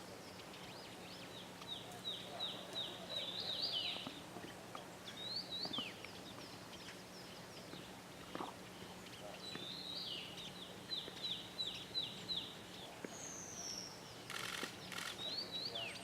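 A small bird singing: two runs of quick, down-slurred high notes with a few rising notes between them, over a faint steady hum.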